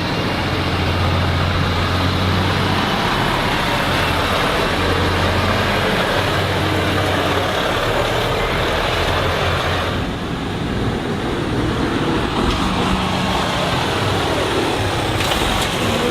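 Heavy trucks' diesel engines running as they drive in, with a steady low engine note through the first half; the sound changes abruptly about ten seconds in.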